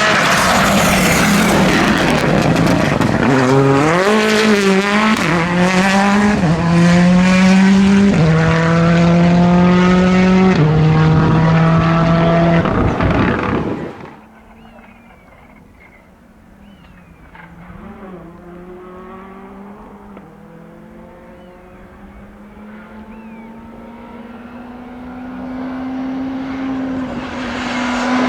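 Rally car engine accelerating hard past at full throttle, the revs climbing and dropping back at several upshifts, then cutting away sharply about fourteen seconds in. A faint engine carries on in the distance, and another car's engine grows louder near the end.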